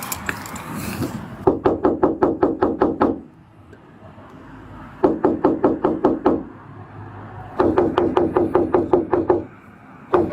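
Rapid knocking on a door, about seven quick knocks a second, in three runs of a second or two each with short pauses between them.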